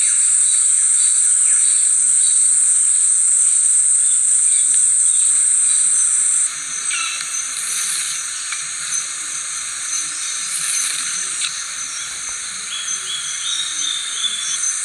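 Steady high-pitched chorus of insects in the wild. It drops suddenly in level about halfway through, and faint clicks and knocks from handwork can be heard after the drop.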